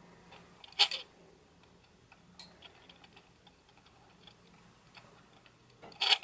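Optical image stabiliser (OSS) motor in a Sony SEL50F18 50mm lens on a NEX-5N, picked up by the camera's own microphone: faint ticking with short grinding bursts about a second in and again near the end, a smaller one between. The owner takes the grinding as louder than it should be, since it is not there with OSS off.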